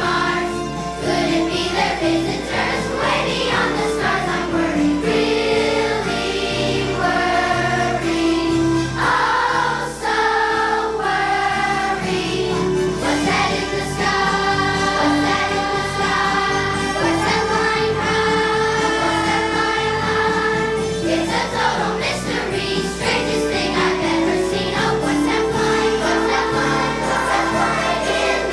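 Music: a children's choir singing a Christmas song over an instrumental accompaniment, with jingle bells.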